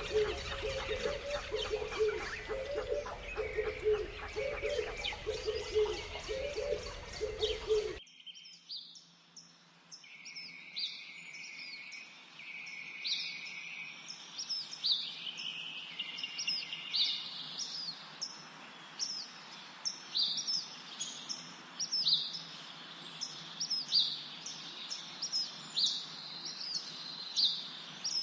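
Ducks quacking in rapid series for about eight seconds. The sound then cuts off suddenly to small birds chirping: short, high calls repeating about once a second, with a brief steady whistle just after the change.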